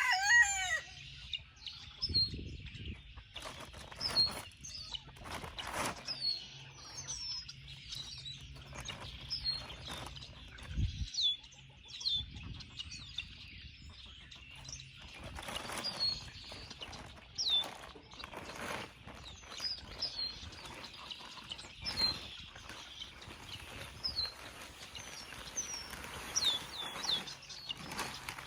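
Backyard chickens: a rooster's crow trails off at the very start, then short, high, downward-sliding chirps come again and again, with occasional soft knocks and scuffs.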